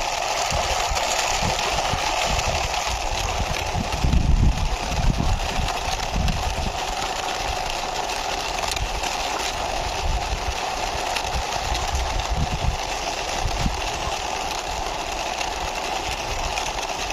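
Toy truck being pushed along by hand: its wheels rolling with irregular low bumps, strongest a few seconds in, over a steady whirring background.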